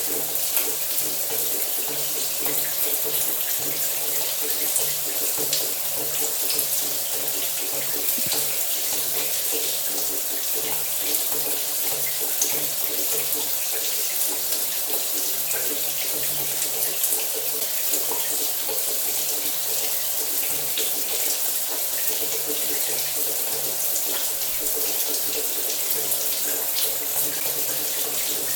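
Shower running steadily, its spray hissing evenly onto a surface with small scattered droplet splashes and a faint low hum underneath.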